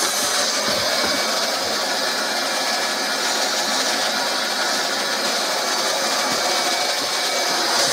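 Hot-air plastic welding gun running, a steady even hiss of blown air.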